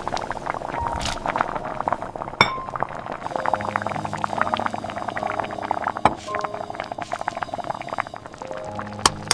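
Rain pattering in dense, irregular ticks, with soft held music notes underneath.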